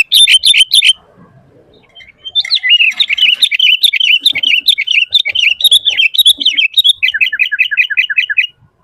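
Sooty-headed bulbul (kutilang) singing loudly in fast runs of short, repeated notes, about five a second. The song breaks off about a second in, resumes after about a second and a half, and near the end switches to a quicker run of falling notes before stopping.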